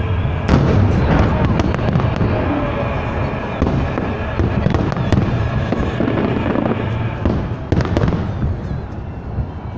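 Fireworks salute going off: a dense, continuous crackle with sharper bangs every second or two.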